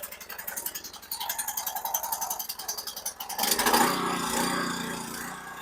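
Small gasoline engine of a pressure washer running after a pull-start, heard as a fast, even ticking. A bit over three seconds in, a louder rattling noise comes over it.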